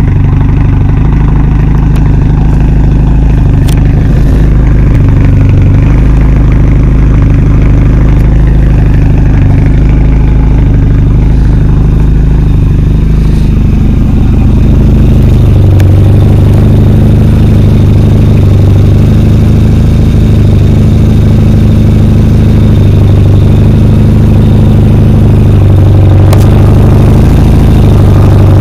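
1993 Volvo 940 turbo wagon's turbocharged 2.3-litre four-cylinder idling steadily through a 3-inch straight pipe and high-flow cat, a loud low drone. The tone shifts slightly about halfway through.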